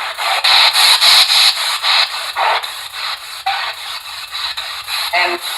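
P-SB7 spirit box sweeping through radio stations: a loud, rapidly chopped hiss of static, with a brief snatch of broadcast sound near the end.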